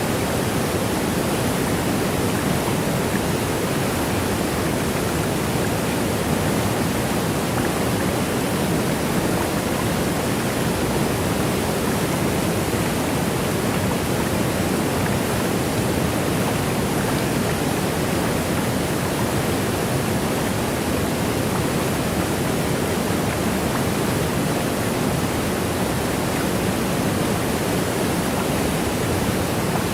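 Waterfall: a steady, unbroken rush of falling water, full and even, with no single splashes standing out.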